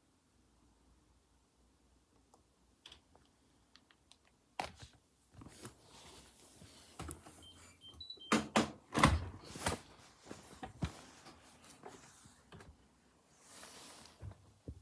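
Near silence, then a run of irregular clicks and knocks, the loudest about 8 to 10 seconds in, with a few faint short beeps just before them.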